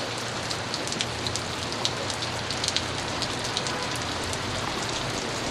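Steady thunderstorm rain falling, with individual drops ticking close by.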